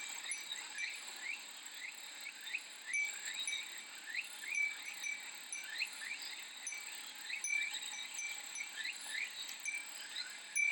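Cicadas shrilling steadily at a high pitch, with many short rising chirps and the light ringing of a Japanese fūrin wind chime recurring every second or so.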